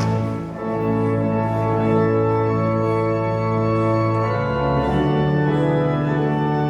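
Church organ playing a closing voluntary in sustained full chords that shift to new harmonies a couple of times.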